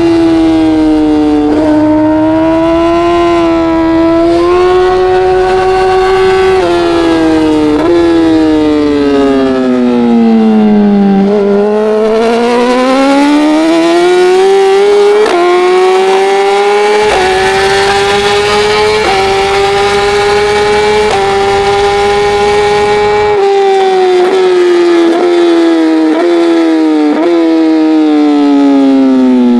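Racing motorcycle engine at high revs under hard acceleration, with quick gear changes that make sudden steps in pitch. About eleven seconds in the revs dip low and climb again. Near the end there is a rapid run of downshifts as the revs fall.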